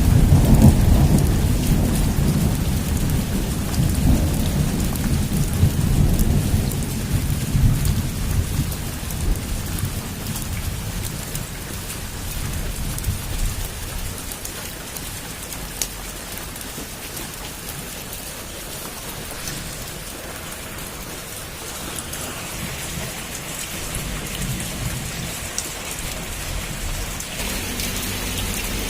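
Heavy rain falling steadily on a roof, with scattered sharp drop ticks. A loud rumble of thunder opens the stretch and dies away over the first eight or nine seconds.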